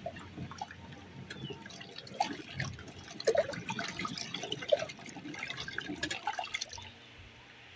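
Water dripping and splashing in small irregular drops and plinks, dying away near the end.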